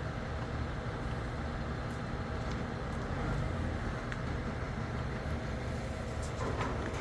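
Engine of a crane truck running steadily with a low rumble. A brief higher-pitched sound comes near the end.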